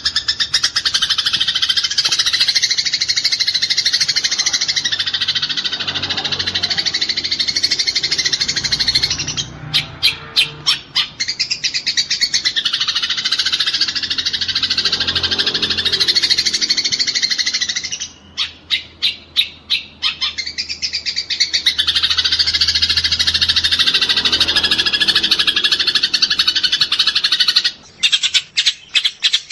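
Eurasian tree sparrows fighting, a dense, rapid chattering that runs on for long stretches. It is broken a few times by short runs of separate, spaced chirps.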